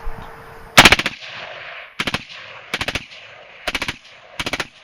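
Suppressed AR-platform rifle in 5.56 firing M855 rounds in sustained strings: about five short, rapid bursts of several shots each, roughly a second apart, the first the loudest.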